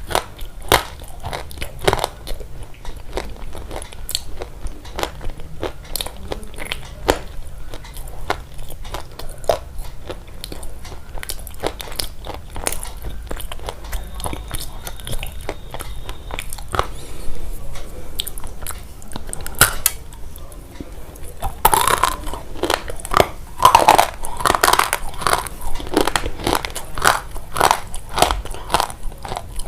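Close-miked crunching: a steady stream of small crisp clicks and crackles, with a louder, denser run of crunches starting about 22 seconds in.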